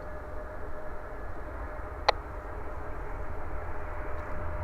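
Steady low rumble and hiss between air traffic control radio calls, with a faint steady hum and one sharp click about two seconds in.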